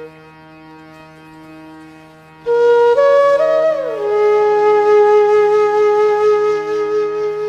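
Background music: a flute melody over a steady drone. The flute comes in loudly about two and a half seconds in, slides down through a few notes and then holds one long note.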